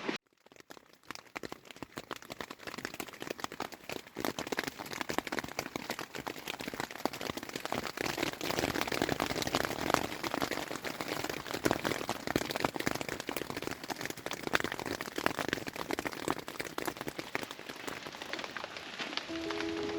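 Rain pattering steadily, a dense spatter of drops.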